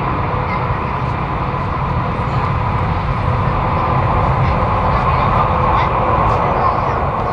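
Jet airliner engines running, a steady loud rush with a constant whining tone over a low rumble.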